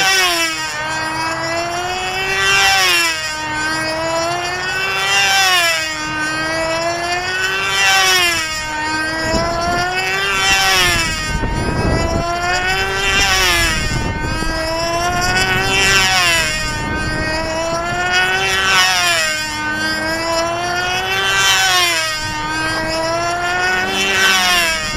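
Model airplane's motor buzzing steadily as the plane flies in circles. The pitch and loudness swell and fall once about every two and a half seconds, once for each lap.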